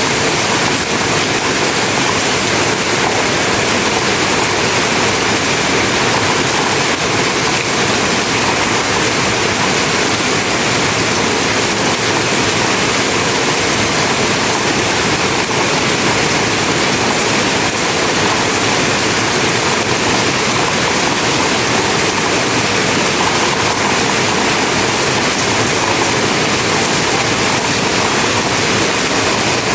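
Heavy rain pouring down, a loud, steady hiss of falling water.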